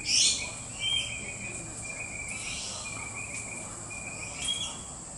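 Several short, shrill bird calls, the loudest right at the start and others about a second in, around two and a half seconds and near the end, over a steady high-pitched insect drone.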